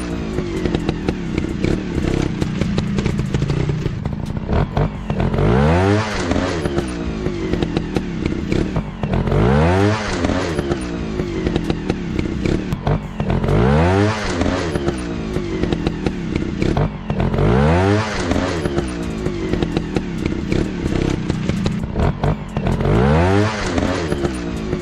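Dirt bike engines revving over and over, each rev rising and falling in pitch about every four seconds, with clattering and scraping over a steady engine drone.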